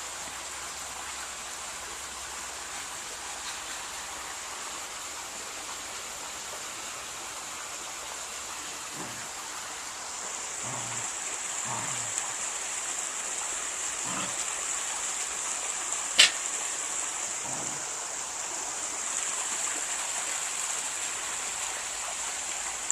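Steady outdoor background hiss with a high, even drone, growing slightly louder about ten seconds in, with a few faint soft sounds and one sharp click about sixteen seconds in.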